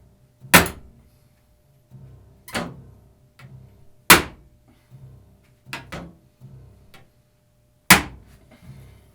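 Hard whacks of a knife being hammered on the back of its blade in a torture test: four loud, sharp strikes a second or two apart, with a pair of lighter knocks between them.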